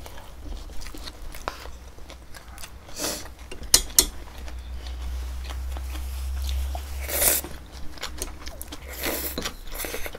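People chewing and biting food close to the microphone, with a few sharp clicks and short hissy rushes, the loudest about seven seconds in.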